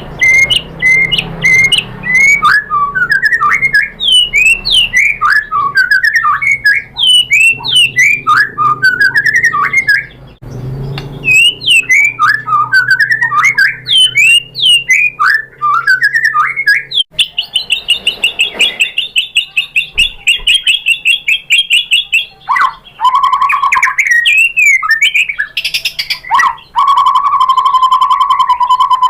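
White-rumped shama (murai batu) singing a long, varied song of sharp chips and sweeping whistled phrases. Partway through it breaks into a long rapid trill, and near the end it switches to fast repeated notes, running through its repertoire of imitated calls.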